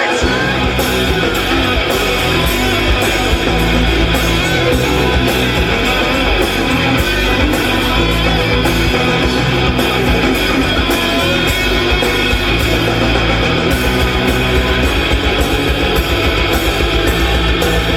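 Rock band playing live: electric guitar over bass guitar with a steady beat, an instrumental passage with no singing.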